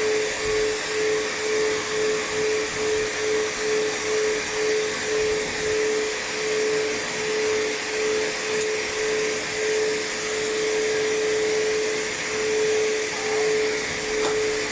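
Pet blow dryer running with a steady whine and a rush of air while drying a cat's fur, the level swelling and fading about twice a second and holding steady for a moment a little after the middle.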